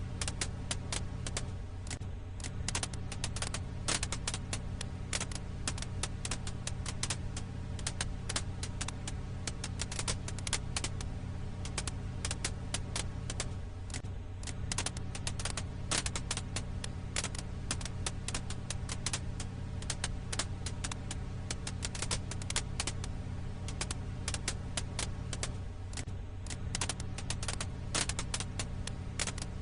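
Firewood crackling in a campfire: dense, irregular sharp pops and snaps over a steady low rumble.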